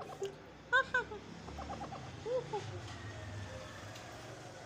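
Alexandrine ring-necked parrot making short calls: two quick squawks about a second in, then a brief rapid stuttering chatter and a couple more short calls.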